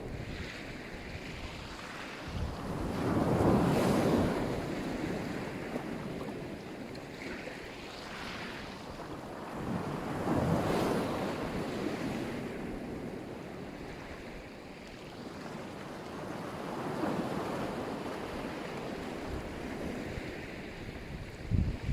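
Black Sea waves breaking on the shore, the surf swelling and fading about every six or seven seconds. Gusts of wind buffet the microphone now and then.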